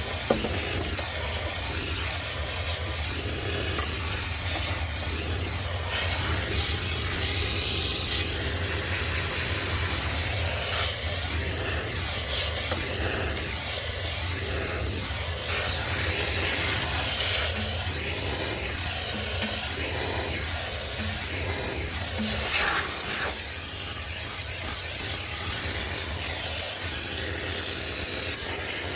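High-pressure steam cleaner jetting steam into a sneaker washing machine to sterilise it: a steady, bright hiss with a low hum underneath.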